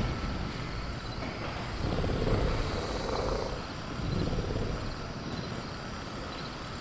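Sound-effect ambience of a caged velociraptor: low rumbling growls that swell and fade every second or two, over a steady bed of jungle noise with faint crickets.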